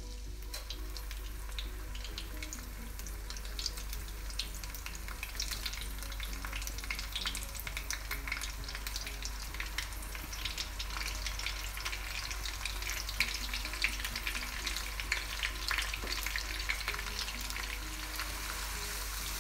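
Ground shallot, garlic and candlenut paste sizzling in hot oil as it is stir-fried, with a dense crackle of small pops that gets a little louder after the first few seconds.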